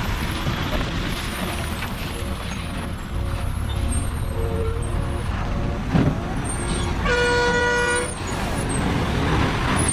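Heavy truck engine running, with a sharp knock about six seconds in, followed by a single steady horn blast lasting about a second.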